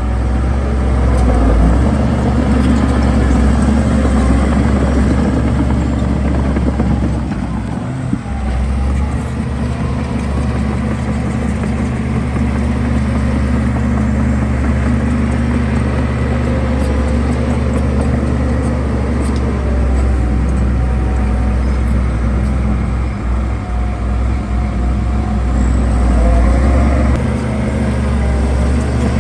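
Heavy diesel engine of earthmoving machinery running steadily with a deep low rumble, its pitch wavering slightly as it works under load.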